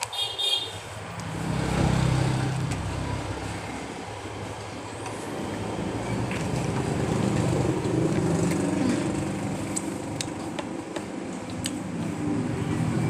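Low rumble of road traffic, with a heavy vehicle going by. It swells about two seconds in and stays strong, with small scattered clicks on top.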